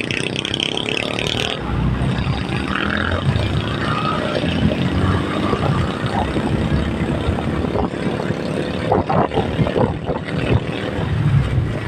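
Road vehicle on the move: steady engine and road noise, with a brief brighter hiss at the start and a few short knocks and crackles later on.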